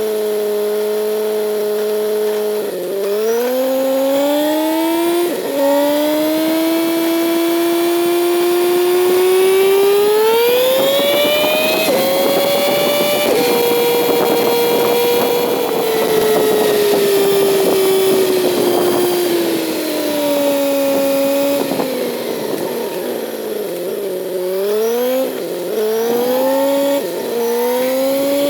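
Kawasaki Z900 inline-four engine under way: the revs climb steadily and drop at each upshift, then fall gradually as the bike slows. Near the end come quick rev changes.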